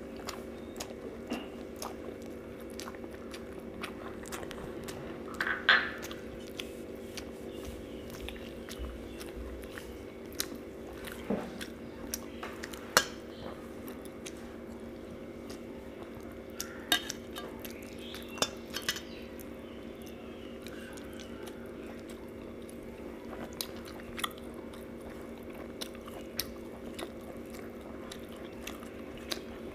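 Close-up eating sounds: a person chewing mouthfuls of rice eaten by hand, with scattered short clicks and taps as fingers mix the food on a steel plate. A steady low hum runs underneath.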